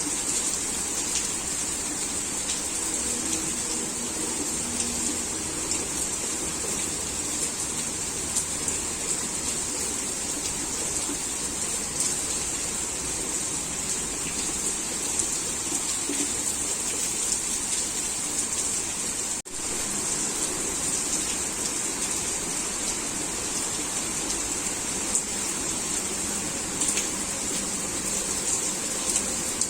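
Heavy rain falling steadily, a dense hiss flecked with small drop ticks. It cuts out for a split second about two-thirds of the way through.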